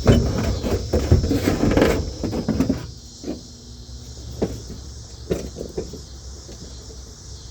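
Car headliner being worked loose and pulled down: rustling and scraping for about three seconds, then a few scattered clicks and knocks.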